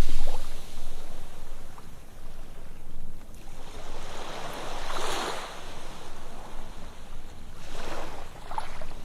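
Ocean waves washing onto a sandy beach, the surf swelling and receding, with surges about five and eight seconds in.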